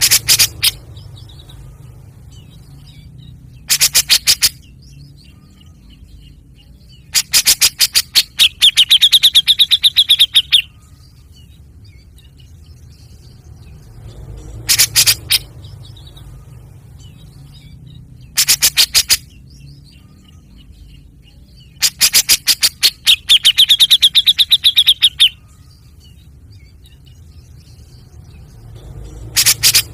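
Bird calls: loud, rapid trains of sharp chirps in short bursts, the longer bursts ending in a held high note. The same sequence comes round again about every 14 seconds, over a steady low hum.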